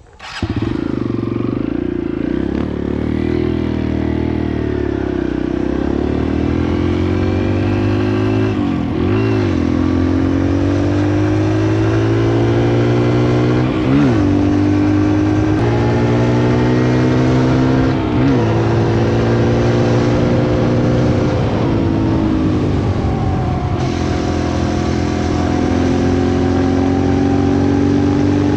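Kawasaki KLX140L dirt bike's four-stroke single-cylinder engine running under load while riding, its note rising and falling with the throttle and dipping sharply a few times, as at gear changes or throttle blips.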